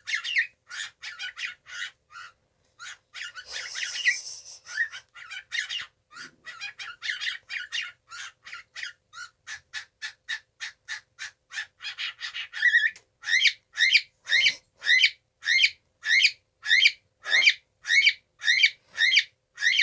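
Young cockatiel chirping in a rapid string of short, repeated calls, the chatter of a chick practising its voice. About two-thirds of the way through the calls grow louder and settle into an even beat of about three a second.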